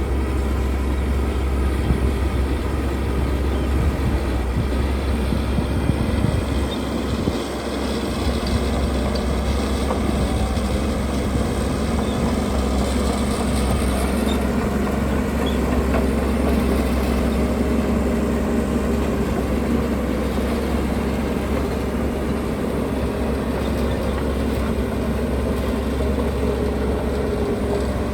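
Heavy construction machinery running: a steady, loud diesel engine drone with a deep low rumble, dipping briefly about seven seconds in.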